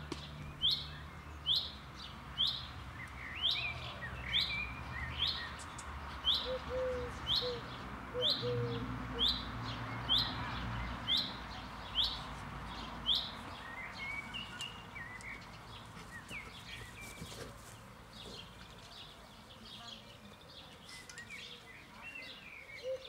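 A small bird calling: a short, sharp note sliding downward, repeated about once a second, which stops about thirteen seconds in. Fainter chirps from other birds go on behind it.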